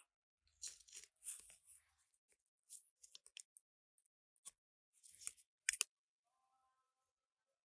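Short scrapes and clicks of hand work on metal parts, ending in two sharp clicks a little before six seconds in.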